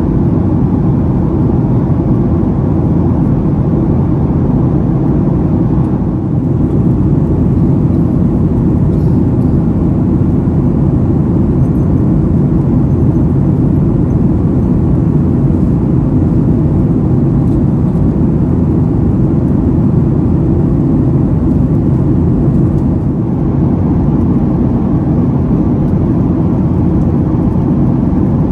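Steady, loud cabin drone of a Boeing 737-800 in cruise: engine and airflow noise heard from inside the passenger cabin.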